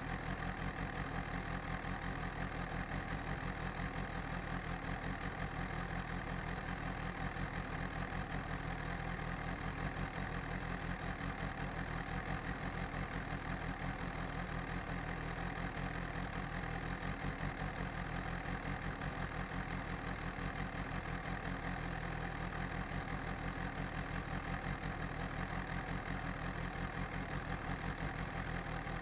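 BMW S1000RR's inline-four engine idling steadily, with no revs.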